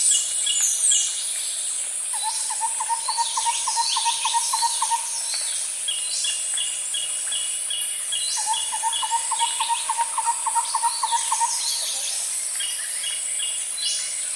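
Nature ambience: several birds chirping and singing over a steady, high insect buzz. Twice, about two seconds in and again about eight seconds in, a lower call runs as a quick series of about five notes a second for a few seconds.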